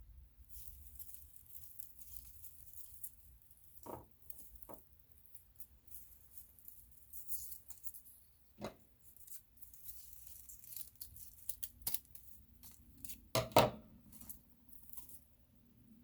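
Dry crinkling and rustling of dried flowers, leaves and paper being handled, with a few light knocks on the work surface, the loudest near the end.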